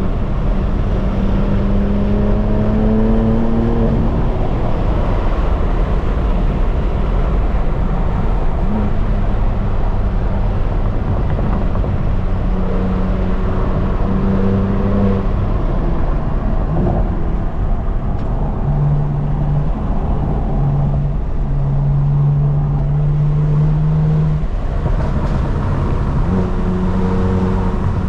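Straight-piped BMW M4 Competition's twin-turbo inline-six under way on the road, its exhaust note rising and falling with throttle and gear changes over steady road and wind noise. The note drops lower about two-thirds of the way through, then climbs back near the end.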